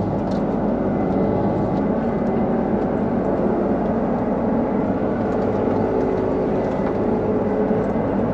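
Combine harvester running steadily, a constant engine and machinery drone heard from inside the cab.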